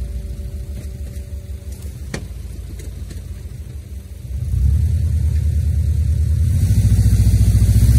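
Subaru Outback boxer engine running under load in a soft dirt rut: low and steady at first, then revving up sharply about halfway through and climbing louder to the end. A single sharp click about two seconds in.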